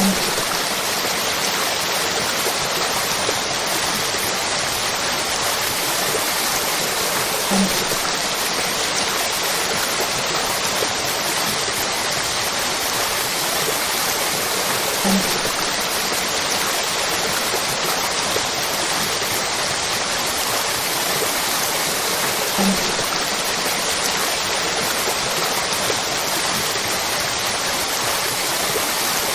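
Waterfall: a steady rush of falling water. A short low bump recurs about every seven and a half seconds, the mark of a repeating loop.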